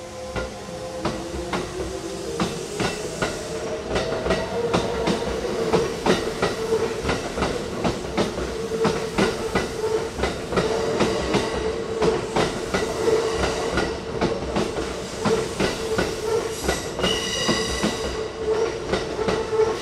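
Electric train running over rail joints, the wheel clicks coming faster and faster. A motor whine rises in pitch in the first few seconds and then holds steady. Near the end a high wheel squeal joins in.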